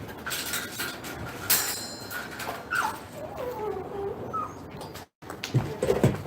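Dog whining in short rising and falling whimpers, with some clattering and knocks around it.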